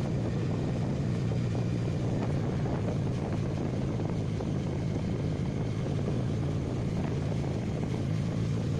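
Motorcycle engine running at a steady cruise while riding, with a low hum and road noise that hold level throughout.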